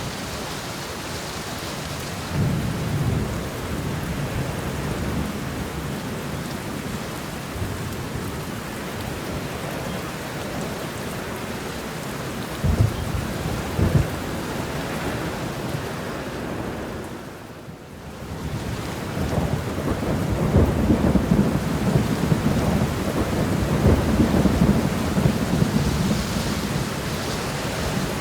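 Steady rain shower with thunder rumbling. There are two sharp low knocks a little before halfway and a brief dip in level about two-thirds through, then the thunder rumbles louder through the latter part.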